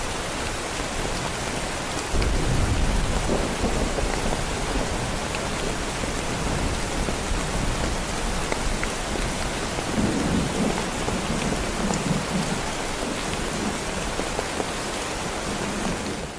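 Heavy rain falling steadily, with rolling thunder: a low rumble that swells about two seconds in and again around ten seconds. The sound fades out at the very end.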